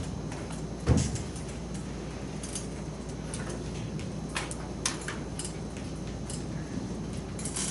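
Scattered light taps and clicks, with one louder thump about a second in, over a steady low room hum: the sound of writing on a board.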